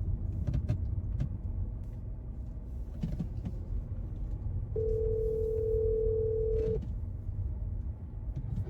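Telephone ringback tone heard through the phone while an outgoing call rings: one steady two-second ring about five seconds in, over a steady low rumble.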